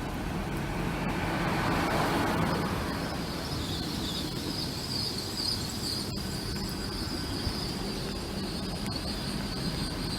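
A train running through the station with a low rumble, and a steady high-pitched squeal from its wheels that sets in about three seconds in and holds.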